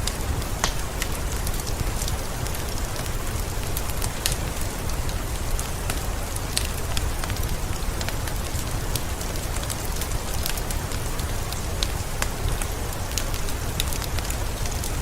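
Steady rain falling, mixed with a crackling fireplace: an even hiss with a low rumble under it and many scattered sharp pops and ticks.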